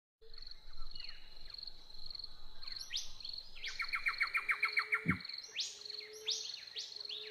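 Recorded birdsong cutting in abruptly out of silence: several birds calling, with repeated quick rising notes and a fast trill of evenly spaced notes about four seconds in, over a steady pulsing high-pitched chirr. A soft low thud about five seconds in.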